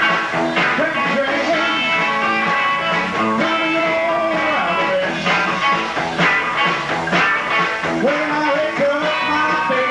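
Rock and roll band playing an instrumental break, with an electric guitar lead of bending notes over bass, rhythm guitar and drums.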